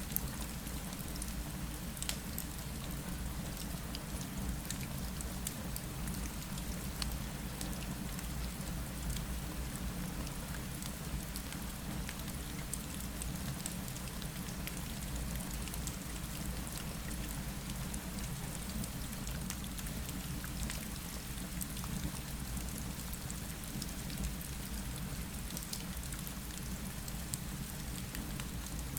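Steady rain falling against a window: a constant even hiss over a low steady rumble, dotted throughout with small sharp ticks.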